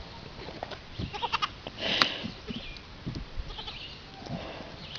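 Short animal calls, with a sharp click and brief hiss about two seconds in.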